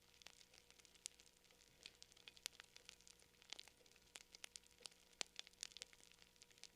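Campfire crackling quietly: irregular sharp pops and snaps, several a second, over a faint steady low hum.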